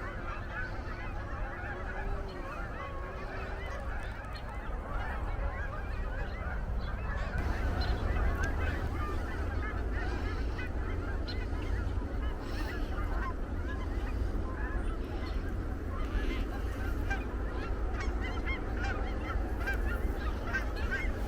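A large flock of geese, cackling geese among them, calling in a dense chorus of short, high honks that grows louder about seven seconds in.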